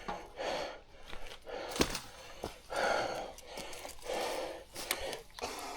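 Heavy, hard breathing from a rider out of breath on a steep climb, a breath every second or so, with sharp clicks and one loud knock just under two seconds in as sticks are pulled off the trail and tossed aside.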